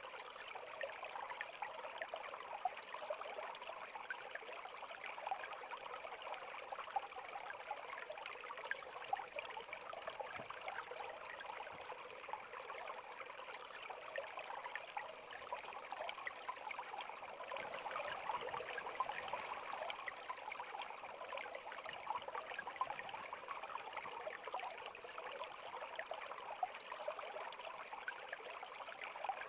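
River water flowing and babbling steadily, a continuous splashing rush with fine crackle and no breaks.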